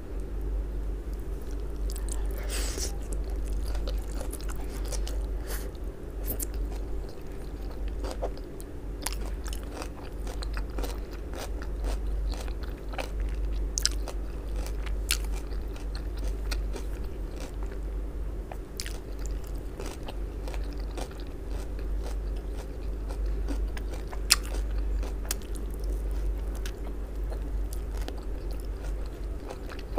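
Close-miked chewing of raw shredded cabbage salad, with many crisp crunches and wet mouth clicks, over a steady low hum. Near the end comes a bite into a soft baked eggplant slice.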